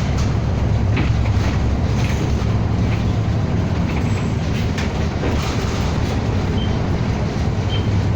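City bus driving between stops, heard from inside the cabin: a steady engine and road rumble with a few faint rattles.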